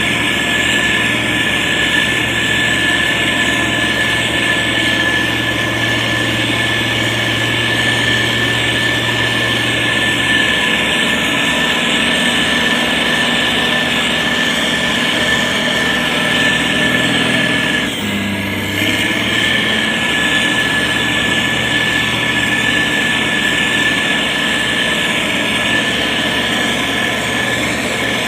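Motor grader's diesel engine running steadily under work, with a constant high whine over the engine note. The engine's low tone shifts around ten seconds in, and the sound dips briefly about eighteen seconds in.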